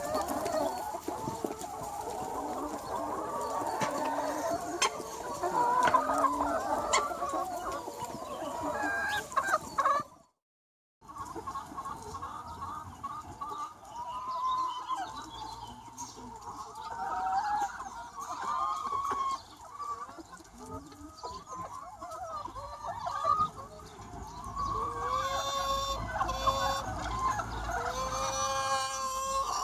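A large free-range chicken flock clucking continuously, many hens calling over one another. About ten seconds in, the sound cuts out completely for about a second, then the clucking resumes.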